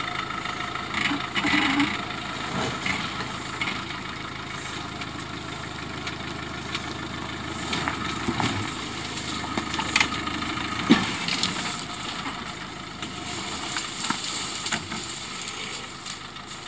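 Suzuki Jimny's engine running at low revs as the 4x4 crawls slowly over rocks, with a few sharp knocks, the loudest about ten seconds in.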